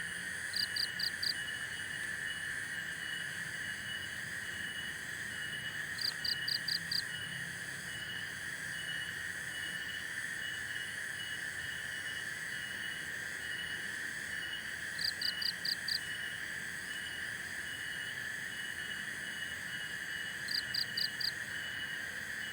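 Night forest ambience of a calling insect chorus: a steady shrill drone with an evenly pulsing trill above it. Four times, a short burst of four or five quick high chirps stands out above the chorus.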